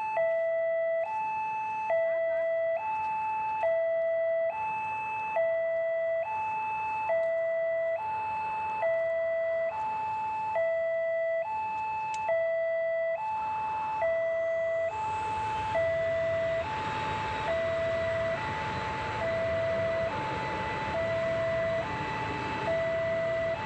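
Railway level-crossing warning alarm sounding its electronic two-tone chime, alternating a low and a high note, each held nearly a second. From about fifteen seconds in, the rumble of a passing train rises underneath it.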